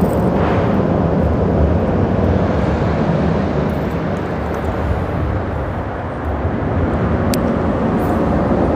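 Steady, loud rumble of freeway traffic on the bridge overhead, blended with the rush of the stream. A single sharp click sounds about seven seconds in.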